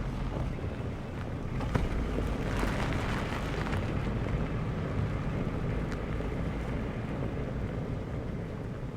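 Wind buffeting the microphone outdoors: a steady low rumble with a hiss of moving air above it and a few faint clicks.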